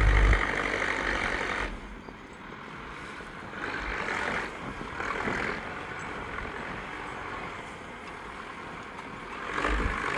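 Diesel tractor engine running, loud at first, then much quieter from about two seconds in, swelling a couple of times and getting louder again near the end.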